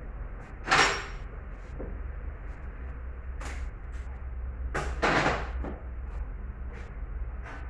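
Tools and engine parts clanking and knocking during an engine teardown: a sharp ringing metal clank about a second in, more knocks around the middle, and small ticks, over a steady low hum.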